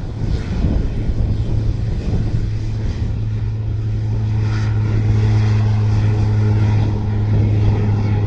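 Propeller engine of a skydiving plane running with a steady low drone, getting a little louder about halfway through.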